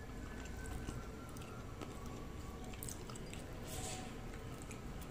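A person chewing a mouthful of tiwul (steamed cassava), with soft wet mouth sounds and scattered small clicks over a low steady background rumble.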